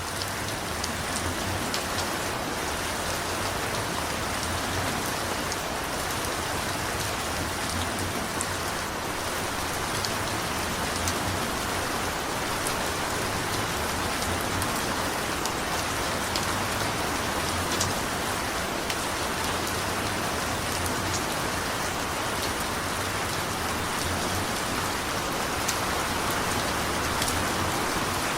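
Steady rain falling on surfaces, an even hiss with scattered individual drop splats and a faint low rumble underneath.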